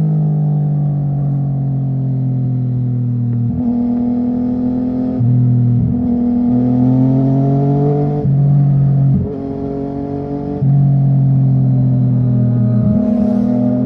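Yamaha MT-09's three-cylinder engine running hard through a loud IXIL full-system decat exhaust at highway speed. The note climbs slowly, then breaks sharply and picks up again about six times as the throttle is lifted and reopened.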